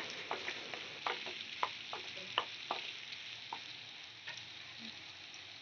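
Chopped tomatoes and onions sizzling in oil in a nonstick kadai, while a wooden spatula stirs them, scraping and tapping against the pan several times over the first few seconds. The sizzle slowly quietens.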